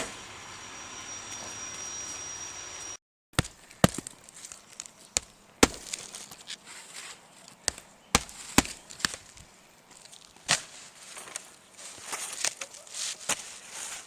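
Roofing work on an asphalt shingle roof: a string of sharp, irregular knocks, typical of nails being driven into new shingles. Before the knocks, after a brief gap, there is a steady hiss with a thin high whine.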